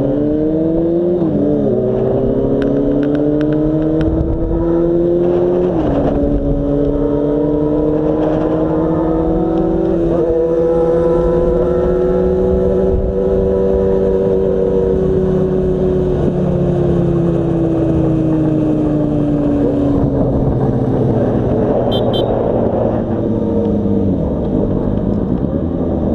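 Yamaha FZ6 motorcycle's inline-four engine pulling through the gears: the pitch climbs and drops with an upshift about a second in and again around six seconds, then holds a steady cruise that slowly rises and eases off.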